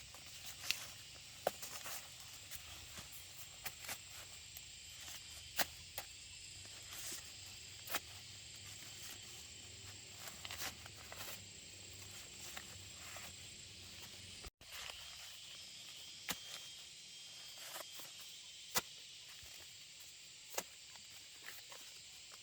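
Steady high insect chirring, with scattered sharp clicks and taps throughout and a brief cut-out about two-thirds of the way through.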